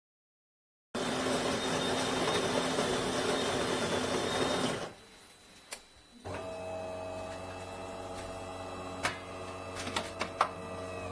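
De'Longhi Magnifica S espresso machine making a coffee: its built-in burr grinder grinds beans for about four seconds and stops, then after a short pause and a click the brew pump hums steadily, with a few clicks near the end.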